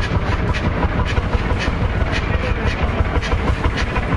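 Lister JP3 diesel engine running steadily in a small locomotive, a low pulsing engine beat with regular clicks about twice a second, like wheels over rail joints.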